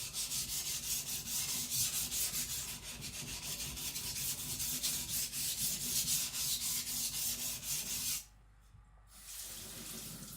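Niolox steel nakiri blade being rubbed back and forth on a whetstone in quick, even strokes, thinning and smoothing the bevel. The strokes stop about eight seconds in.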